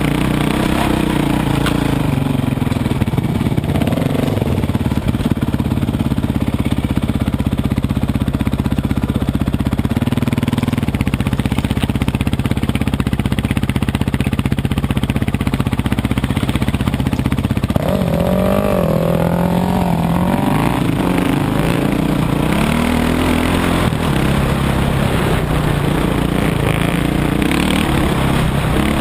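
Dirt bike engine running under way, its pitch rising and falling with the throttle, with a sharper rev about two-thirds of the way through.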